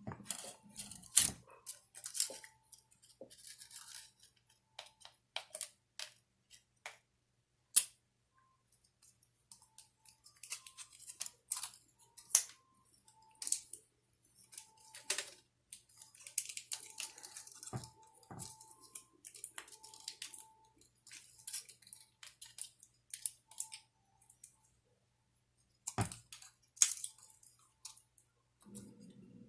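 Hands working tape around the repaired wires of a Toyota airbag clock spring: irregular clicks, crinkles and short scratchy tearing rasps.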